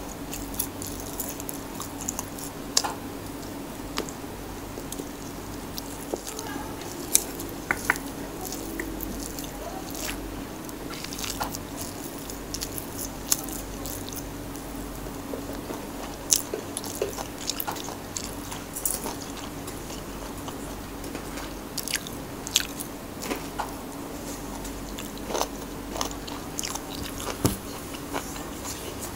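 A person chewing and biting fish cake and kimchi, with many scattered short wet clicks and crunches, over a faint steady hum.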